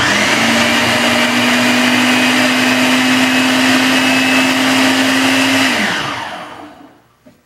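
Countertop blender running steadily on a continuous setting, not pulsed, as it blends a smoothie of fruit and greens. It starts suddenly and holds a steady whir with a hum for about six seconds, then is switched off and spins down.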